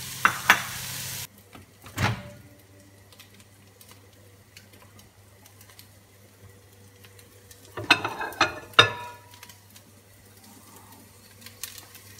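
Ground beef and vegetables sizzling in a pot, stopping abruptly after about a second. This is followed by a knock, a quiet stretch, and a cluster of knocks and clinks around eight seconds in as a ceramic bowl is handled at a microwave.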